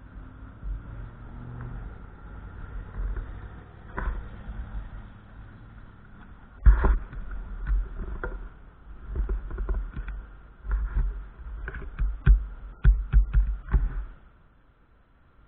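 Gusty wind buffeting the microphone: a low rumble that swells and drops, with a run of sharp thumps as stronger gusts hit in the second half, easing off near the end.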